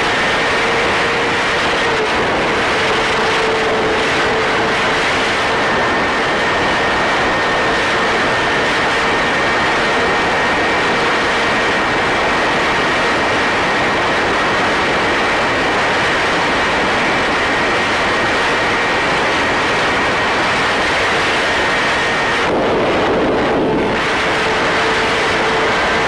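An engine running at a steady speed: a loud, even rush with two steady whining tones, which waver briefly near the end.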